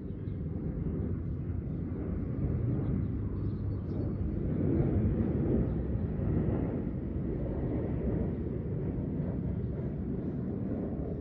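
Steady low rumble of outdoor background noise, swelling a little midway.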